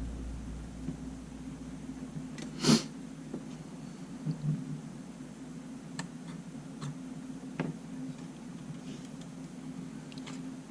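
Scattered small clicks and taps of a camera being handled and opened on a workbench, one sharper click near the start and a few faint ticks later, over a steady low hum.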